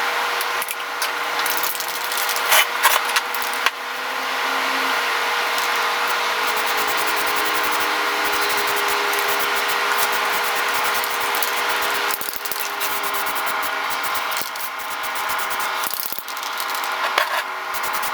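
Drill press running with a twist drill cutting through steel, a steady motor hum under a grinding, rubbing cutting noise with scattered clicks.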